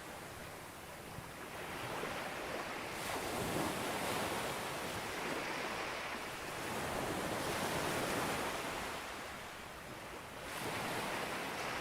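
Sea waves breaking on a beach and washing up the shore. A wave breaks about three seconds in and its wash runs on for several seconds. It ebbs, then another wave builds near the end.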